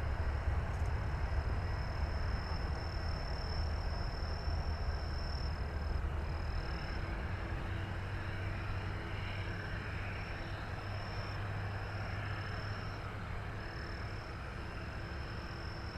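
Low rumble of a Boeing 747-8 freighter's four GEnx jet engines slowly fading as the aircraft climbs away after takeoff. A thin, steady high-pitched trill runs over it, breaking off every second or two.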